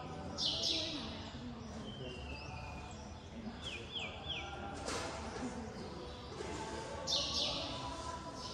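Small birds chirping, with quick falling notes in groups of three, over a faint steady hum of voices. Two louder hissy bursts come about half a second in and again near the end.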